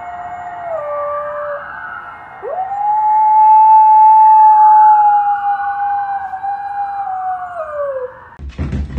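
Dog howling, probably set off by a siren: a short howl that drops in pitch, then about two and a half seconds in a long, loud howl that rises, holds for about five seconds and slides down at the end. A siren wails faintly behind it.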